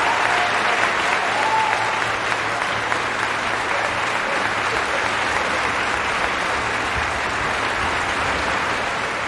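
Concert audience applauding steadily after an operatic aria, with the last faint notes of the music dying away in the first couple of seconds.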